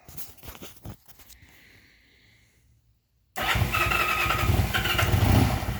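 A few faint mechanical clicks and rattles, then about three seconds in the 1972 Honda CL175's parallel-twin engine suddenly fires and runs loudly and unevenly on choke. It is the first start after a top-end rebuild with new piston rings.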